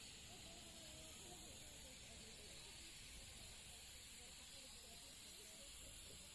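Near silence with a faint, steady hiss.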